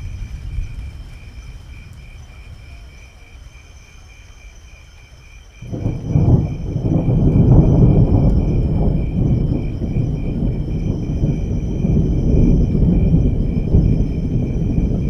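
Thunder: a low rumble dies away, then about five and a half seconds in a sudden loud clap breaks into a long, deep rolling rumble that carries on to the end.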